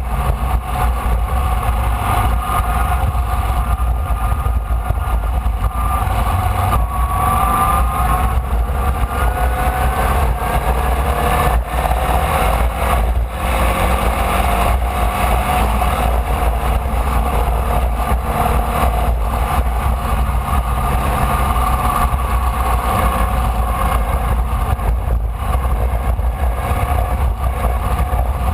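Formula Vee's air-cooled Volkswagen flat-four engine heard onboard at racing speed, its pitch climbing slowly several times as it pulls, over a steady heavy low rumble.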